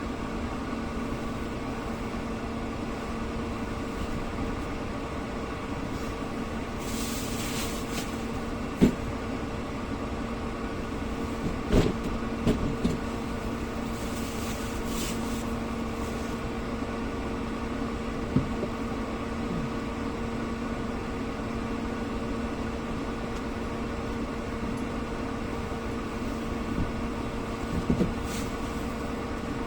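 A steady mechanical hum with a low, even tone, broken by a few sharp knocks and two short bursts of hiss.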